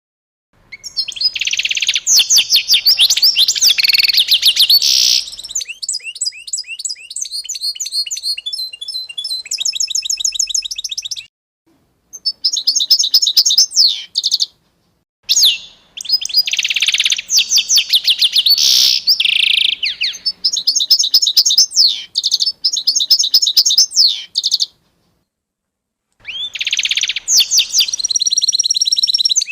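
Songbirds chirping and twittering in fast, high trills. They come in several stretches with short silences between, the longest near the end.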